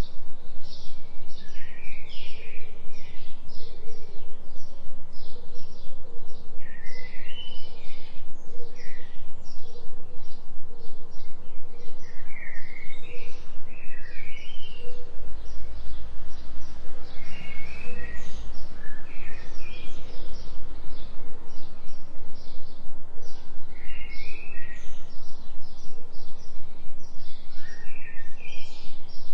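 Delta binaural-beat track: a low steady hum with a tone above it, pulsing evenly about three times a second. Under it, forest birds chirp and repeat short rising-and-falling calls throughout.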